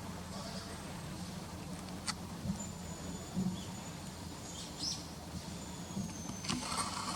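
Small birds giving thin, high-pitched calls, including two long drawn-out notes, over a steady low hum, with one sharp click about two seconds in.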